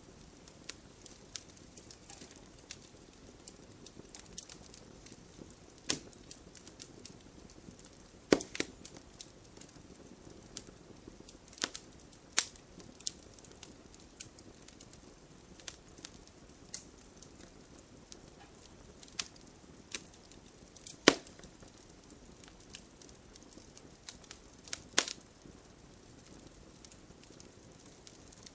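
Fireplace fire crackling: irregular sharp pops and snaps over a low, steady hiss of flame, with a handful of louder pops scattered through.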